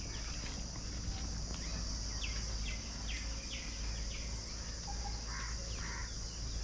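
Outdoor ambience of insects and birds: a steady high-pitched insect drone runs under a series of short, falling bird chirps, with a few lower calls near the end and a low rumble beneath.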